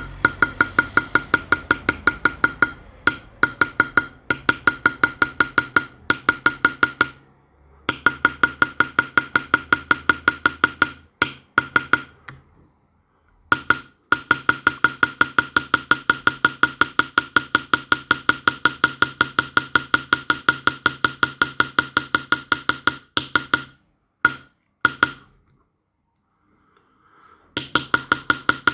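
A small hammer tapping fast and evenly on a metal punch in silverwork, about six ringing taps a second. The tapping stops briefly a few times.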